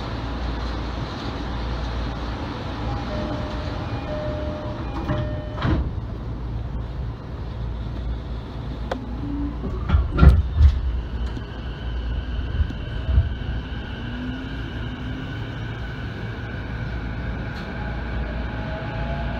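Electric commuter train of the JR Negishi Line running at speed, heard from inside the car: a steady rumble of wheels on rail, with a few sharp knocks, loudest about ten seconds in, and faint high whining tones in the second half.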